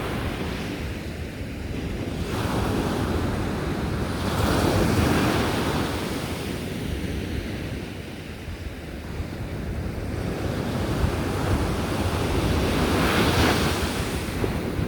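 Sea surf breaking on a sandy beach: a continuous wash of waves that swells and ebbs, with louder breakers surging about halfway in and again near the end.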